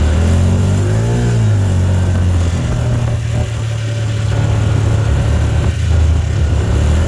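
Vehicle engine and road noise heard while driving: a steady low hum, with the engine note rising and falling once briefly about a second in.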